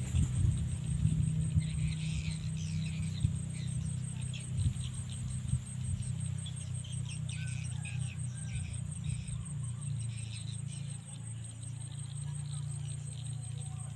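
A steady, finely pulsing insect trill, cricket-like, high in pitch, over a low steady hum, with scattered soft knocks and chirps in the first half.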